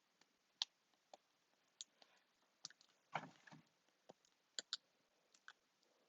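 Faint, irregular clicks and taps with a short rustle about three seconds in: hands handling craft materials.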